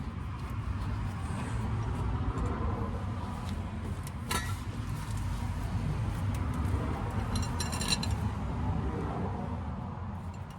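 Light metal clinks and rattles over a steady low rumble, with a sharp click about four seconds in and a quick run of ticks near eight seconds.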